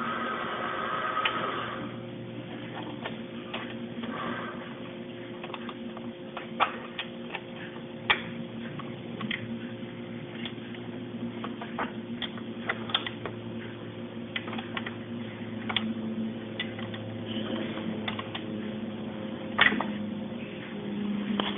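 Irregular clicks and taps of computer hardware being handled while fitting the AMD FX-4100 processor into its socket, over a steady low hum.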